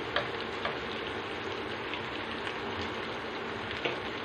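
Diced pumpkin, capsicum and onion sautéing in a pan: a steady sizzle with a few faint crackles.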